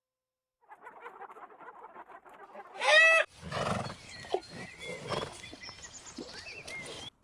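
Animal calls: a short, loud call about three seconds in, then quieter calls over a rustling background.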